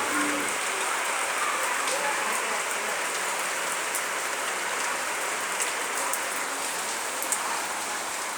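Steady rain falling: an even hiss with scattered sharper drop taps.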